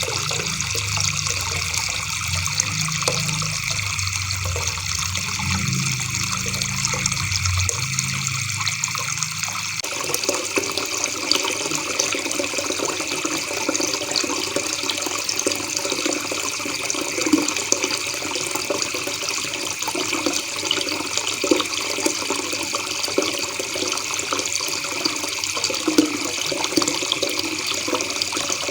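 River water babbling steadily, an even rushing trickle with no break. A low hum sits underneath it and stops about ten seconds in.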